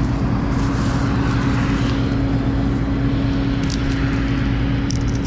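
Heavy farm machinery running steadily in the field: a continuous engine and drivetrain drone with a constant low hum, and a few faint ticks near the end.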